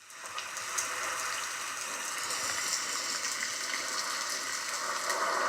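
Steady rain falling, a hiss with scattered drop ticks, fading in at the start.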